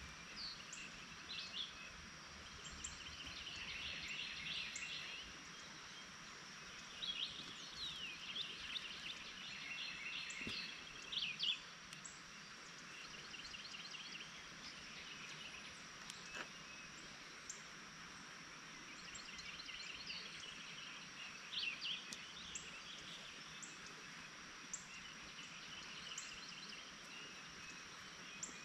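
Songbirds chirping and trilling in short bursts, with quick falling notes, over a faint steady outdoor hiss.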